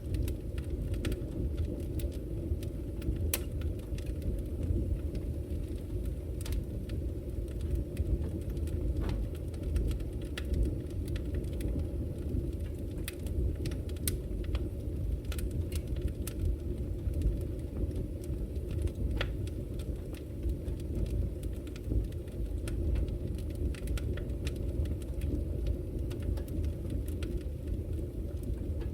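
Wood fire burning in a fireplace: a steady low rush with scattered sharp crackles and pops.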